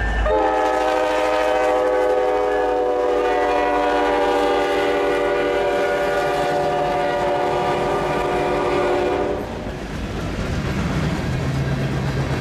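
Diesel freight locomotive's multi-note air horn sounding one long, steady blast of about nine seconds. Then the rumble and clatter of the train's cars rolling past.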